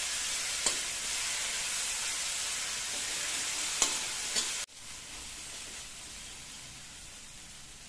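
Ground spice paste sizzling as it fries in hot oil in a steel wok, with a metal spatula scraping and clinking against the pan a few times. About two-thirds of the way through, the sizzle drops suddenly to a quieter level.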